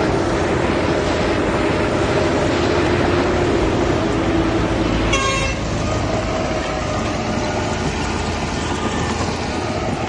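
Heavy diesel earthmoving machinery running steadily under load, with a brief high-pitched toot about five seconds in.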